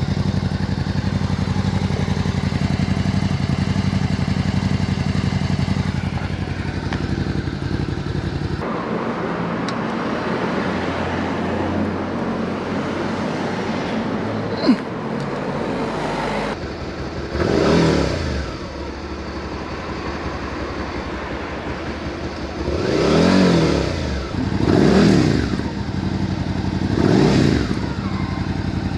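Suzuki SV650's 645 cc V-twin running through a new LeoVince GP Dual exhaust, end baffles in place. It idles steadily, then is revved in four short throttle blips, each rising and falling back to idle. There is a single sharp click about halfway through.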